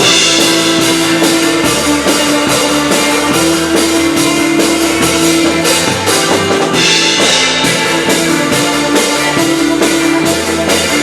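Rock band playing live without vocals: a drum kit keeps a steady beat under sustained electric guitar and bass.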